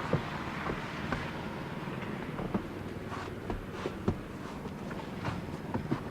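Snow crunching in about a dozen short, irregular clicks over a steady low rumble.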